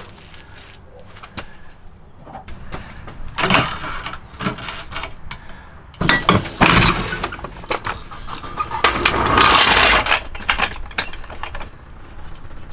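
Tools and car parts being handled: a string of clicks, clinks and knocks, with a sudden louder clatter about six seconds in and a stretch of rustling scraping near the end.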